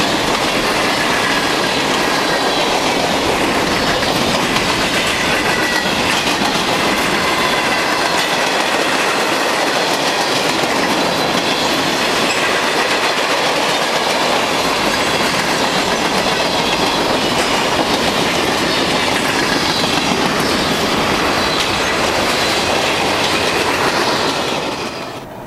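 Freight cars of a CN train rolling past close by: a steady rumble of steel wheels with clickety-clack over the rail joints and faint, thin wheel squeal. The sound falls away near the end as the last car goes by.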